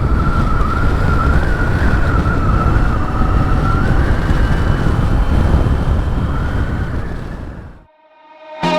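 Loud wind and road noise from riding a Triumph Tiger 900 GT at speed, heard through the rider's microphone, with a steady, slightly wavering high whistle over the rumble. It fades out near the end.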